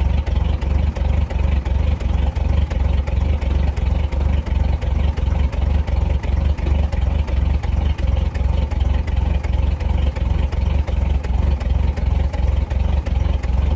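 Toyota 3Y four-cylinder petrol engine idling steadily after a cold start, with an even, low, pulsing beat.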